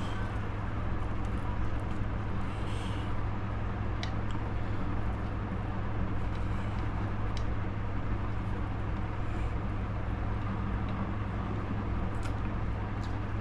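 A steady low background hum, with a few faint clicks as food is pulled apart by hand.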